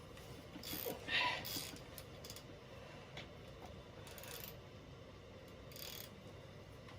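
Faint clinks and scrapes of hand tools and metal differential parts being handled at a bench vice, as a few short, scattered bursts.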